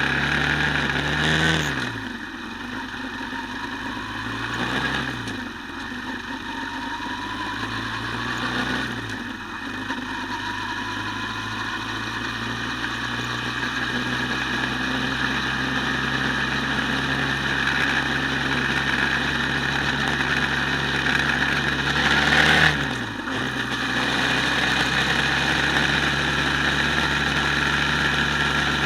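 Quad bike engine running, heard from on board. Its pitch changes briefly about four times, with steady running in between.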